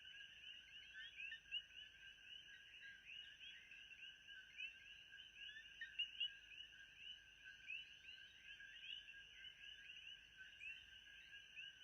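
Faint nature ambience: a dense chorus of many small overlapping chirps, like frogs or insects calling at night, with a steady thin high tone above it.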